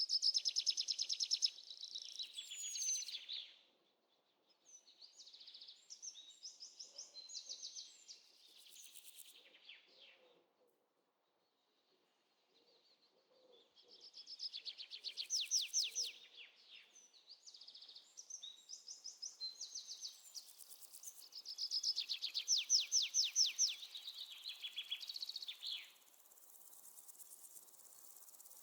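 Night wildlife chorus of fast, high-pitched trilling calls in bouts of a few seconds with brief quiet gaps, and a short falling whistle about two and a half seconds in.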